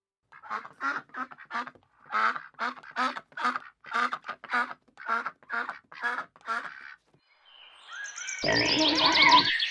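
A duck quacking in a quick, steady run of short quacks, about two to three a second. It is followed near the end by a louder burst of mixed sound with high bird chirping.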